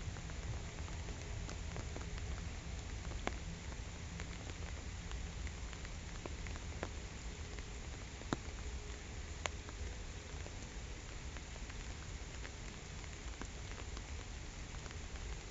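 Steady rain falling on a pond, with a few sharper, louder drop ticks standing out from the even patter.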